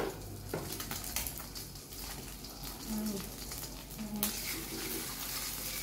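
Egg omelette frying in hot oil in an aluminium wok, a steady sizzle, with a clank of the metal spatula against the pan right at the start.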